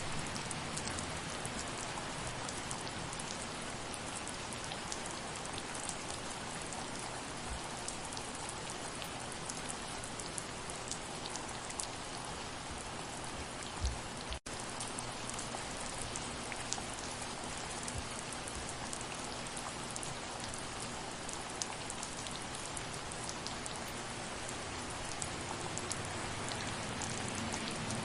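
Steady soft rain falling, an even hiss of countless drops with fine individual ticks of drops striking surfaces. About halfway there is one short low thump, and the sound drops out for a split second just after it.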